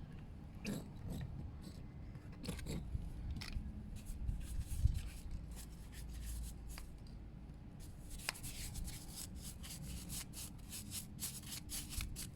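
A brush rubbing toilet cleaner over a stainless motorcycle exhaust: short scraping strokes, scattered at first, then a quicker run of strokes over the last few seconds.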